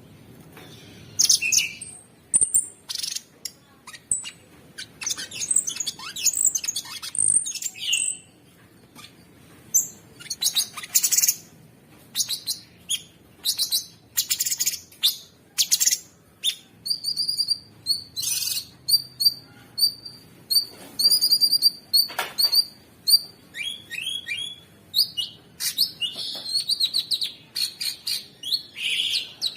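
Cucak sungkok songbird singing a fast, continuous song of short, harsh chirps and high whistled notes, with brief pauses between runs and a stretch of quickly repeated high whistles about two-thirds of the way through.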